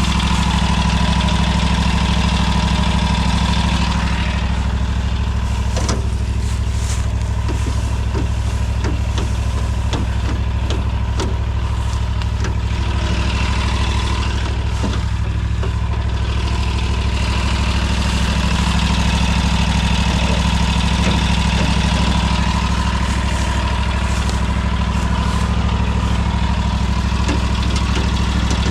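A small engine running steadily at a constant speed, with a steady high whine on top.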